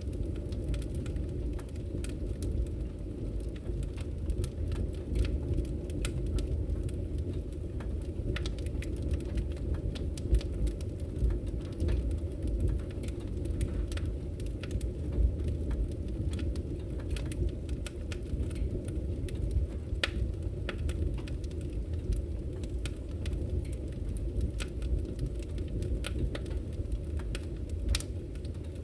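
Wood fire burning in a fireplace: a steady low rumble of the flames with frequent scattered crackles and pops.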